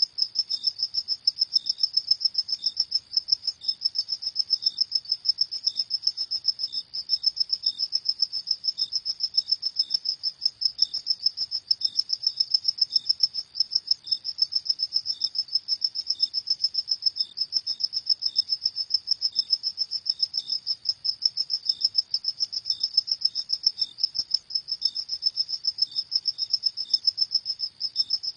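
Crickets chirping at night in a rapid, even pulse train that does not let up, with a fainter second chirp at a slightly lower pitch coming in every second or so.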